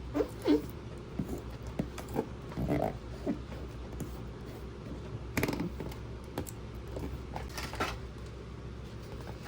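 Hands handling small toy pieces and packaging: scattered light clicks, taps and rustles, the sharpest about half a second in and again about five seconds in.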